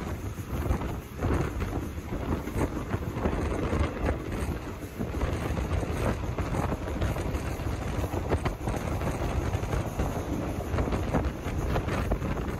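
Running noise of a moving train heard from on board: a steady low rumble with irregular clattering knocks from the wheels and rails, and wind buffeting the microphone.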